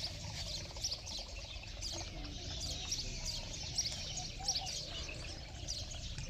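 Birds chirping: a dense run of short, high chirps throughout, over a low rumble of background noise.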